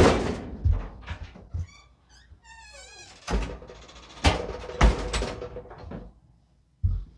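Thunks and knocks of the dryer's sheet-metal front panel being lifted off and handled, with a brief wavering squeal about two seconds in.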